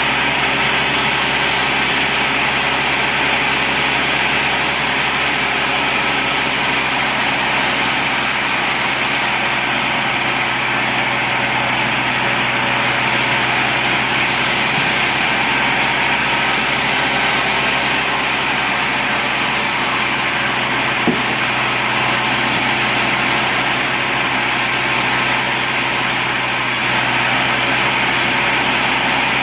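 Sawmill band saw running steadily, a continuous machine drone with steady tones over a broad noise, and one brief click about twenty seconds in.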